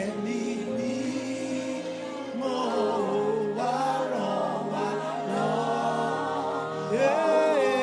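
Choir singing a slow gospel worship song with long held, wavering notes over a sustained accompaniment, swelling louder near the end.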